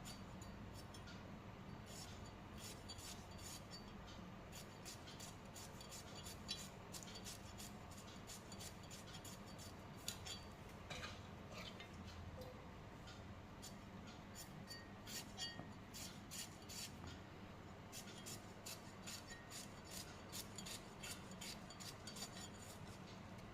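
Ivy gourds being sliced very thin: a long run of quick, crisp cutting strokes, several a second, uneven in pace.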